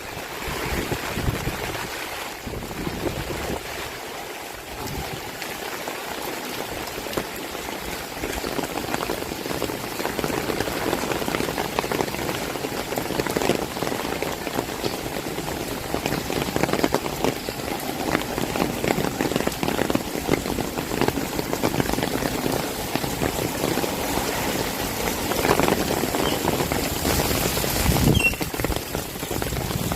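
Heavy rain falling: a dense, steady patter of drops striking surfaces, growing a little heavier after the first several seconds.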